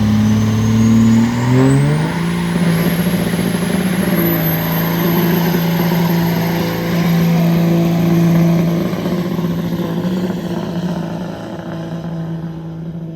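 Diesel pickup engine revving up and held at high revs for several seconds, with a thin high whine climbing as it spools, then holding steady. The revs ease off near the end.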